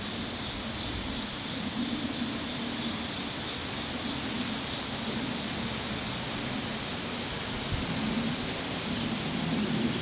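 Cicadas buzzing in a steady, continuous high-pitched chorus, with a faint low rumble underneath.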